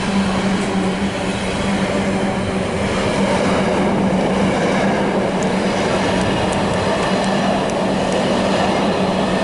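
Container wagons of an intermodal freight train rolling past: a steady, loud rumble and rush of steel wheels on rail, with a constant low hum running under it.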